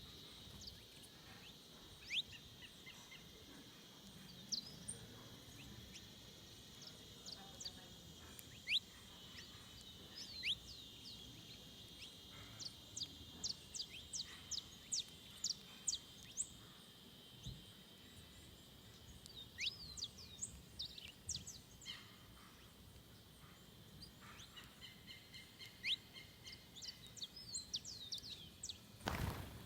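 Wild forest birds calling with many short, sharp chirps, thickest toward the middle and near the end, over a steady high insect trill. A brief thump comes near the end.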